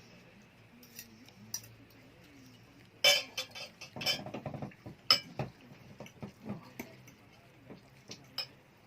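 Cutlery and dishes clinking at a dinner table: scattered sharp clicks of utensils against plates, loudest about three seconds in and again about five seconds in.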